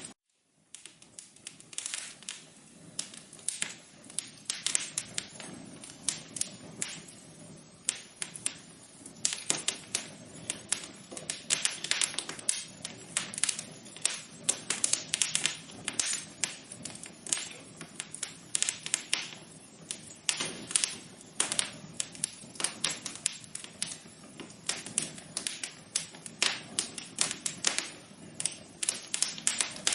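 Wood fire in a fireplace crackling: irregular sharp pops and snaps, sometimes in quick clusters, over a low steady hiss. It cuts out briefly right at the start, then runs on.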